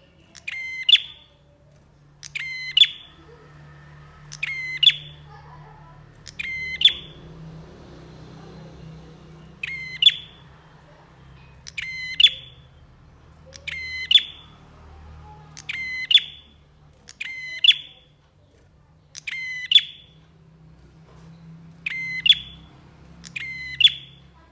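Prenjak songbird singing, repeating a short, rapid chattering phrase about every two seconds.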